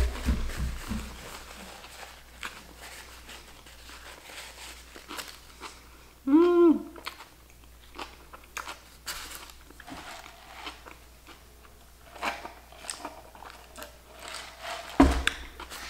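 A person chewing a mouthful of sandwich, with repeated small crunchy, clicky bites and smacks throughout. A short hummed "mm" comes about six seconds in, and a louder thump near the end.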